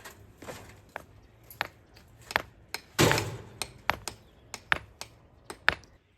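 A dozen or so sharp, irregular clicks and knocks, with one louder, longer clatter about three seconds in.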